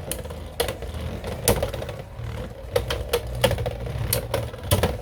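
Two Beyblade X tops, Dransword 3-60F and Hellsscythe 4-60T, spinning in a plastic stadium and clashing: irregular sharp clacks of metal-bladed hits several times a second over a low spinning hum.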